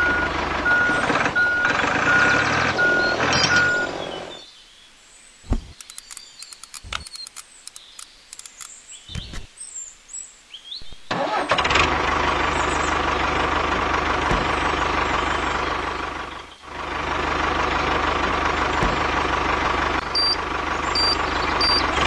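Tractor engine running steadily, with a quiet stretch holding a few clicks in the middle. A short electronic beep repeats about twice a second during the first few seconds, and a higher beep repeats again near the end.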